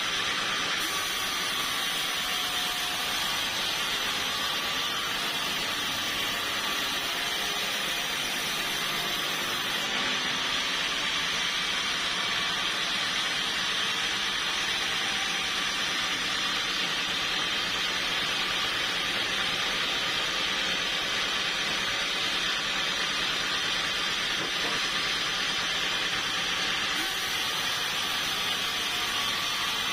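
Sawmill saw running steadily through teak wood, a continuous even noise with no pauses; the brightest top end drops away about ten seconds in and returns near the end.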